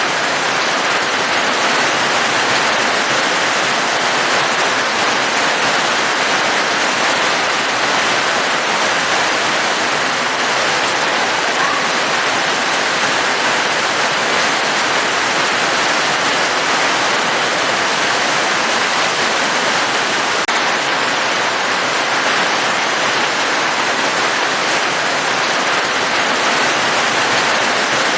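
Steady heavy rain: an even, unbroken hiss of falling water with no distinct drops or pauses.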